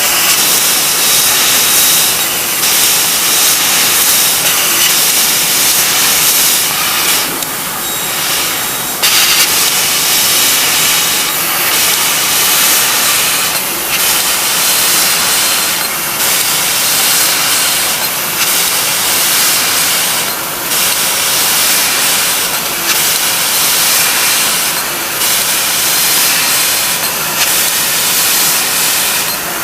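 CNC sheet-metal laser cutting machine running, with a loud steady hiss of gas at the cutting head. The hiss dips briefly every two to three seconds, with one longer break about a quarter of the way in.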